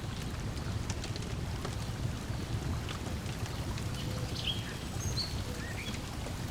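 Wood fire crackling with scattered sharp pops over a steady low wash of lake water lapping at the shore. A few short bird chirps come in during the second half.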